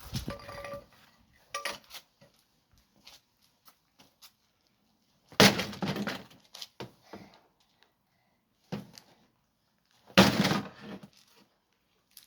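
Pickaxe striking an old dishwasher twice, about five seconds apart, each blow a loud crash with breaking and rattling parts, with lighter clinks and knocks between.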